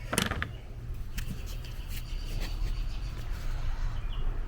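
Power steering fluid being poured slowly from a bottle into the reservoir, with a sharp click just after the start, over a steady low hum.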